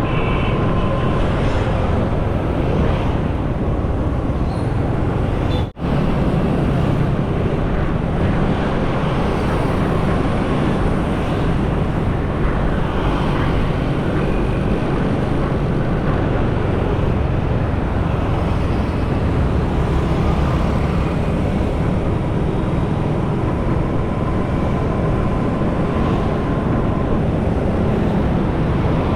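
Motorcycle riding noise: wind buffeting the camera microphone over the steady running of the engine and tyres on the road, with a momentary dropout about six seconds in.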